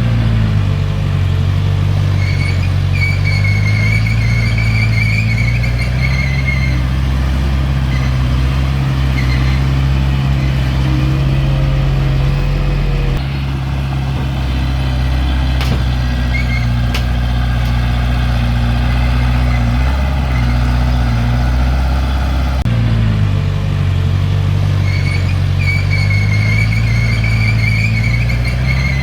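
Diesel engine of heavy earthmoving equipment running steadily under load, with a high wavering squeal on top for a few seconds near the start and again near the end.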